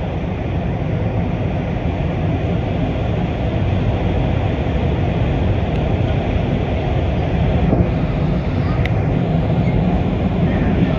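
Beijing Subway Line 6 train running at speed between stations: a steady low rumble of wheels on rail and running gear that slowly grows louder. There is a brief faint squeak about nine seconds in.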